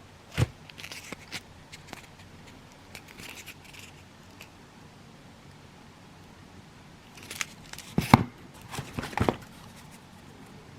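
Fireworks being handled out of a cardboard selection box: a sharp knock, light rustling of packaging, then a cluster of louder knocks and scrapes near the end as items are picked up and set down.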